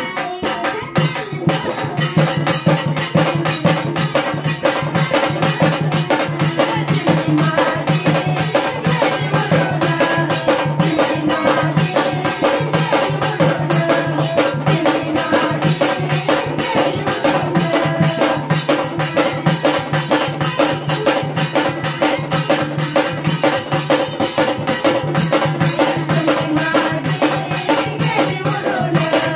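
Instrumental folk music interlude: a fast, steady percussion beat with tambourine-like jingles over a sustained melodic line.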